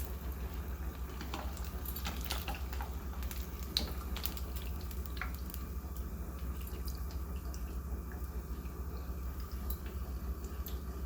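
Spring rolls frying in hot oil, with scattered crackles and pops that are thickest in the first few seconds, over a steady low hum.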